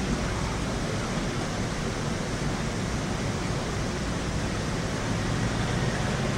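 Heavy rain falling steadily during a thunderstorm, an even rushing hiss with no thunderclap in it.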